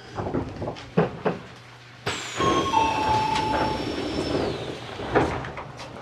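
Commuter train car standing at a station with its doors open: a few sharp knocks, then from about two seconds in a sudden burst of station and platform noise with a high whine that drops away near the middle, and one more knock near the end.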